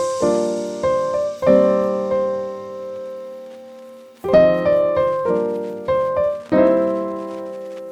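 Background piano music: slow chords struck one at a time, each left to ring and fade, with a pause of about two seconds before the chords resume.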